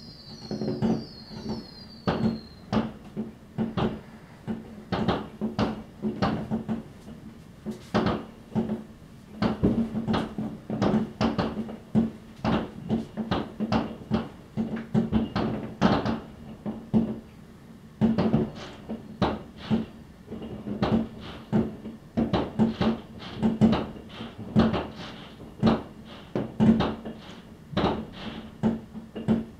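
Fireworks going off: a long, irregular run of bangs from rockets and firework batteries, often several in quick succession. Several falling whistles sound in the first couple of seconds.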